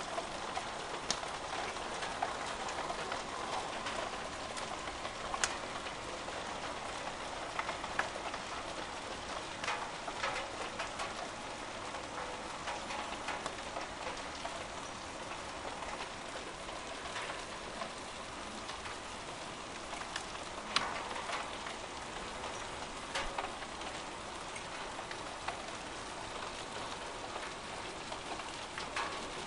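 Hail and heavy rain falling, a steady hiss with scattered sharp impacts of stones striking hard surfaces.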